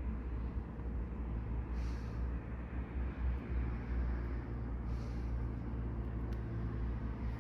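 Subaru Sambar Dias Van TV2's rear-mounted 660 cc four-cylinder engine idling steadily, a low even hum with no revving.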